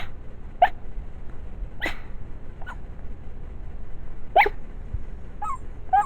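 Chihuahua dreaming in her sleep, giving about six short, irregularly spaced yips and whimpers.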